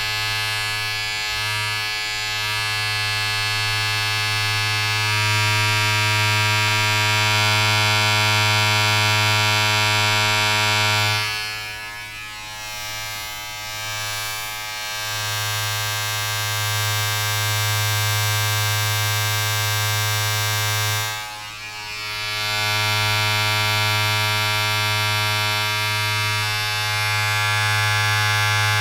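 Steady electric buzzing from a small mains-powered appliance, rich in overtones. It dips briefly twice before coming back up.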